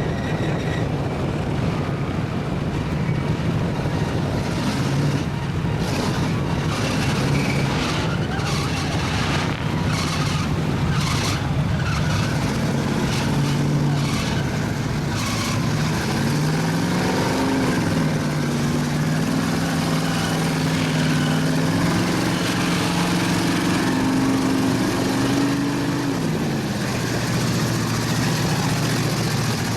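Big mud truck's engine running hard, revving up and down with its pitch climbing and falling through the second half and dropping back near the end, as a stuck truck works in a mud pit. A run of sharp cracks and slaps is heard in the first half.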